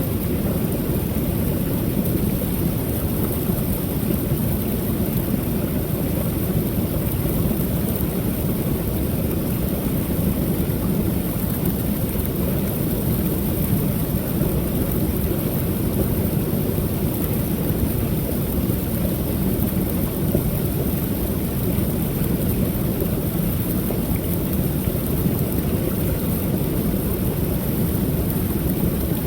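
Small waterfall on a creek pouring steadily: a continuous low rush of falling water with no breaks or changes.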